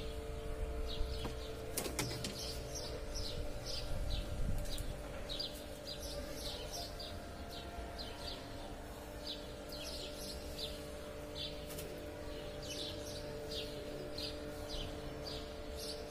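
A small bird chirping over and over, short falling chirps a few times a second, over a faint steady hum.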